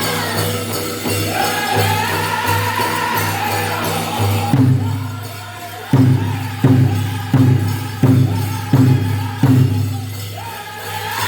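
Powwow drum group singing over a big drum, with a jingling of bells. About halfway through, the singing drops back and the drum comes in with a run of heavy, evenly spaced strikes before the voices pick up again near the end.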